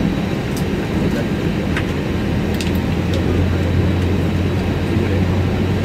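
Steady cabin noise inside an Airbus A320 on the ground, with air rushing and a low hum from the aircraft's systems. A deeper hum grows louder about two and a half seconds in, and there are a few faint clicks.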